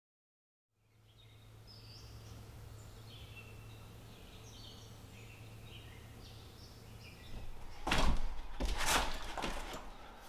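Faint ambience with a steady low hum and scattered short bird chirps, then a few loud knocks about eight seconds in.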